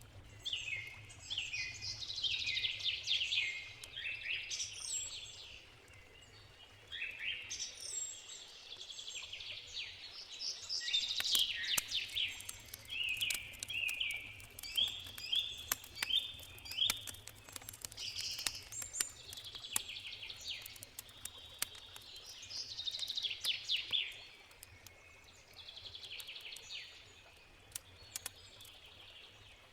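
Songbirds singing in a string of phrases made of quick, falling notes, over scattered sharp crackles of a wood campfire.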